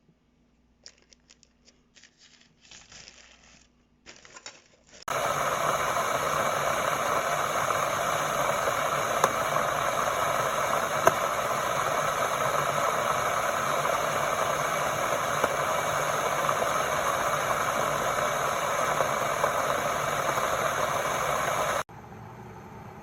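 Faint crinkling and clicks, then a steady, loud rushing and rattling noise that starts suddenly about five seconds in and cuts off near the end: the COSORI glass electric kettle's water at a full boil.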